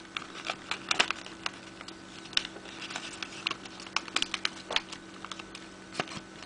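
A sheet of A4 paper rustling and crackling in irregular small clicks as it is folded and creased by hand into an origami model, over a faint steady hum.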